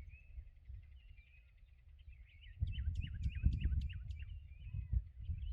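Several small birds chirping and twittering, the calls coming thicker with quick downward-sweeping notes from about halfway through, over a low rumble that starts at the same point.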